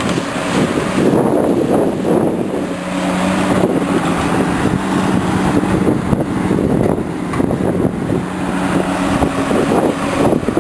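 Caterpillar 345C hydraulic excavator's diesel engine running under load while digging, a loud rough engine noise throughout. A steady engine hum holds a constant pitch through the middle of the stretch.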